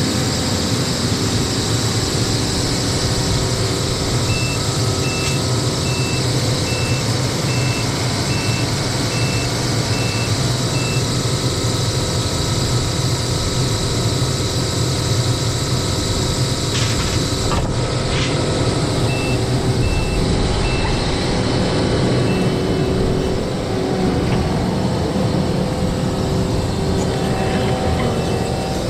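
A heavy machine's engine running steadily, with its backup alarm beeping a little more than once a second in two spells while it reverses.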